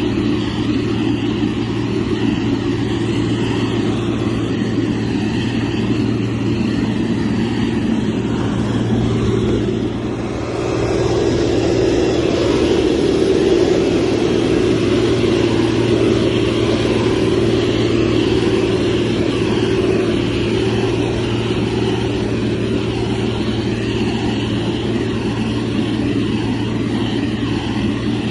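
Motor grader's diesel engine running steadily under working load, with a constant low hum. It dips briefly about ten seconds in, then runs a little louder.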